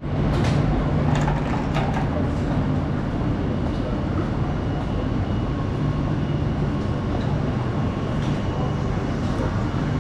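Station platform ambience: a steady low hum from a standing passenger train, with a few sharp clicks in the first two seconds from passengers' footsteps and luggage.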